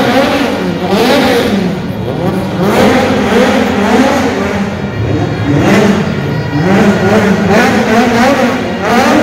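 Car engine revving hard over and over, its pitch rising and falling about once a second.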